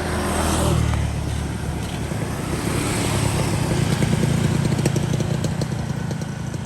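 Two-stroke underbone racing motorcycle engine running. It cuts in suddenly, holds fairly steady, and gets a little louder about halfway through.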